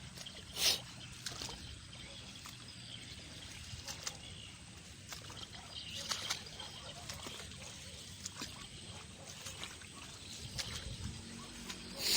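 Someone wading through swamp water: irregular splashes and sloshing from each step, with a louder splash about half a second in and another near the end.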